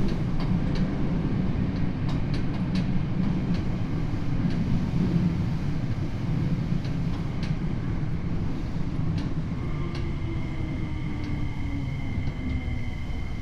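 Tokyo Metro 7000 series subway car heard from inside, running steadily with a low wheel-and-rail rumble and scattered clicks. About ten seconds in, a steady high whine from its Hitachi IGBT inverter drive joins, with a lower motor tone that slowly falls in pitch.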